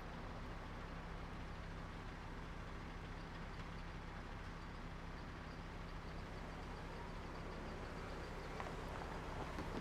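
Suburban street ambience in summer: a steady low hum of vehicle and traffic noise, with a faint rapid high ticking through the middle and a single short click near the end.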